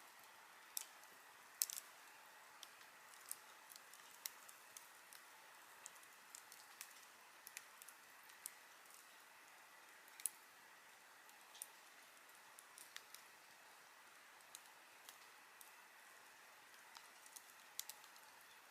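Campfire crackling: a faint steady hiss of burning wood with irregular sharp pops and snaps, the loudest about a second and a half in and again about ten seconds in.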